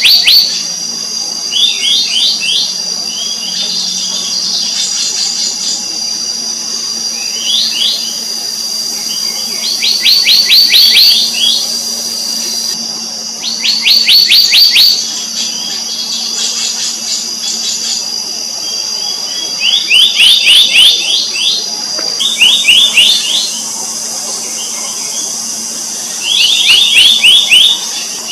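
Black-naped monarch calling in quick bursts of rapid, ringing, downslurred notes, each burst about a second long and repeated every few seconds. A steady high-pitched whine runs behind the calls.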